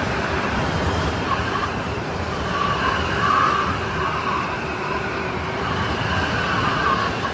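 Strong snowstorm wind blowing steadily, with a wavering whistle riding on it that swells about three seconds in.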